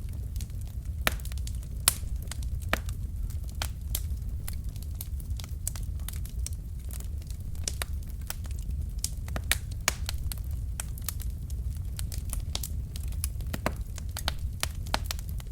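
Wood fire burning in a fireplace: logs crackling and popping in irregular sharp snaps, several a second, over a steady low rumble of the flames.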